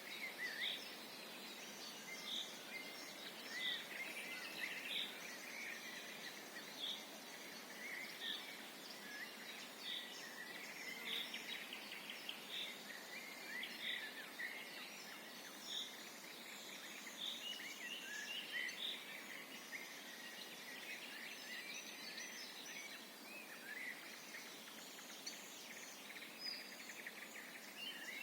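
A chorus of songbirds singing in a forest: many overlapping chirps and trills, with one bird repeating a short high note about once a second through the first two-thirds.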